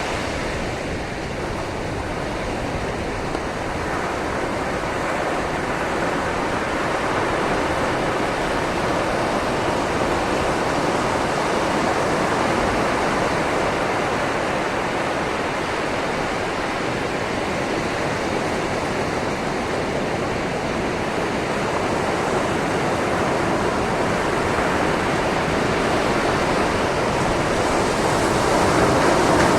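Sea waves washing over a shoreline: a steady rush of surf that swells and eases slowly, growing louder near the end.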